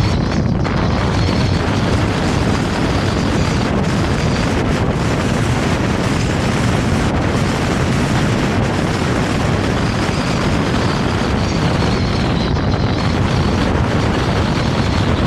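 Vario LF2R.E tram running along the track, a steady deep rumble of wheels on rails, with a faint high whine above it.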